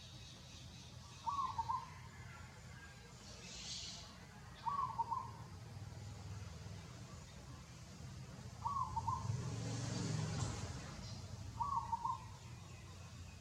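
A bird repeating the same short call four times, about every three and a half seconds, over a low background rumble that swells and fades around ten seconds in.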